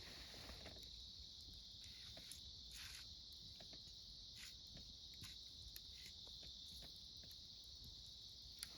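Autumn crickets singing in a steady, high, continuous chirr, with scattered faint crackles and pops from a wood campfire.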